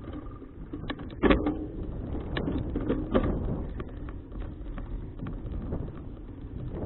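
Riding noise picked up by a bicycle-mounted action camera: a steady low rumble of wind and road, with irregular rattling clicks and knocks, the loudest a little over a second in and again around three seconds in.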